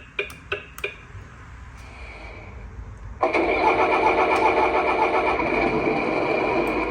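An RC dump truck's electronic sound module plays a simulated truck engine through its small speaker. It comes on suddenly about three seconds in and runs steadily at idle, after a few sharp clicks in the first second.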